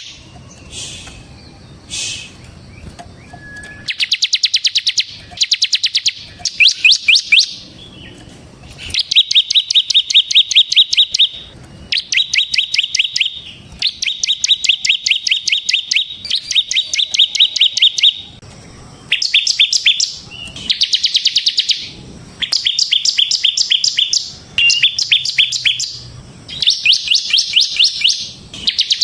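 Ciblek semi, a prinia, singing its fast drilling trill ("ngebren"): about a dozen bursts of rapid high repeated notes, each one to two seconds long with short pauses between. The first few seconds hold only a few short notes before the trills start.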